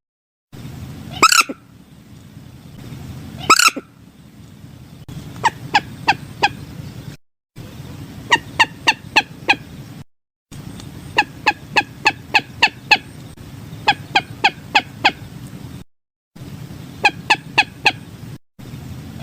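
Common moorhen calling: two loud, longer calls early on, then repeated bouts of five to seven short, sharp notes, about four to five a second. The recording is looped, with abrupt brief silent gaps between sections.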